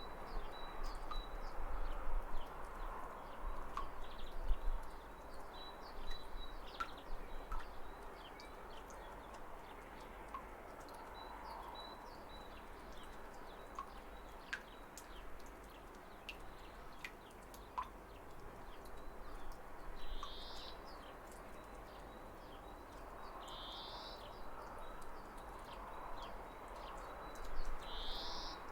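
Waterfall running as a steady wash of water with scattered small drips and splashes, while birds chirp: short high chirps repeat throughout, with three louder calls in the last third, a few seconds apart.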